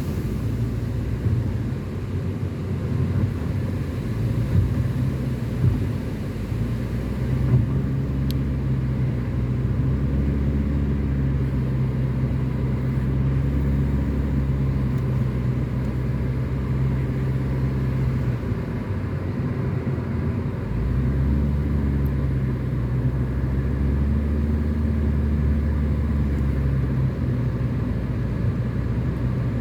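Car running along a road: a steady low engine hum with tyre and road noise, its engine note shifting a few times.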